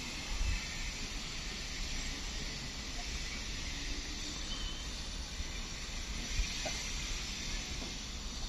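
Steady hiss and low rumble of an electric passenger train approaching slowly along the track, still some way off.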